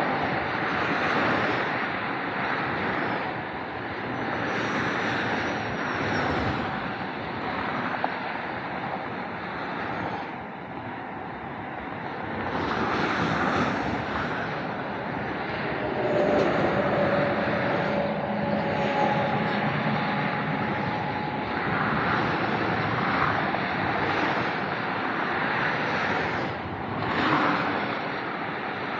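Steady rush of motorway traffic on the Autobahn, with individual cars and trucks swelling louder as they pass, one passing vehicle carrying a held engine or tyre tone about two-thirds of the way through.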